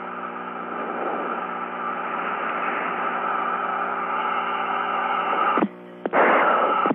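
Static and hiss with a steady hum on an open air-to-ground radio channel between transmissions, slowly getting louder. It cuts out about five and a half seconds in, and a short burst of noise follows near the end.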